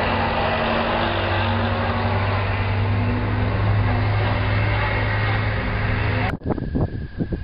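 A motor vehicle engine running steadily with a low hum under street noise. About six seconds in it cuts off abruptly, and gusts of wind buffet the microphone.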